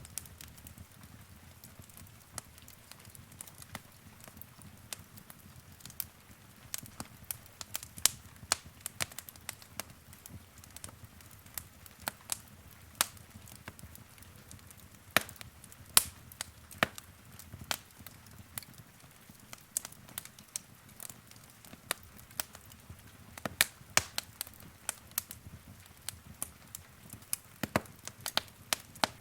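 Wood fire crackling in a fireplace: irregular sharp pops and snaps, some much louder than others, over a faint low rumble of the flames.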